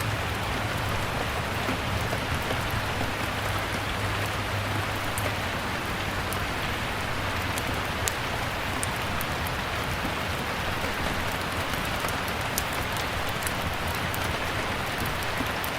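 Steady rain falling, with scattered sharp pops and crackles from a fireplace, coming more often in the second half.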